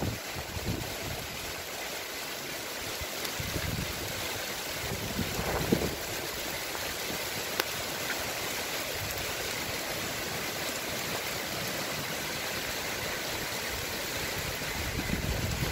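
Steady rain falling on garden foliage, an even hiss with scattered faint drip clicks. A few low thumps of wind on the microphone come near the start and about five seconds in.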